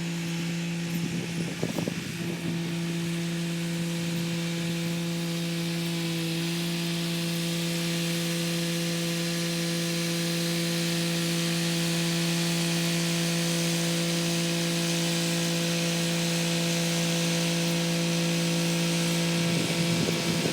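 Kubota SL35 tractor's diesel engine running at a steady pitch while it drives a rotary tiller, with a hiss from the tilling. A brief rattle comes about a second in and again near the end.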